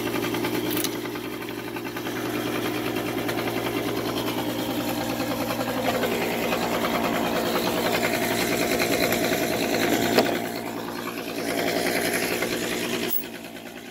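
Small portable generator running under load while an angle grinder cuts through steel U-bolts, with a rapid even pulse throughout; the cutting stops sharply near the end.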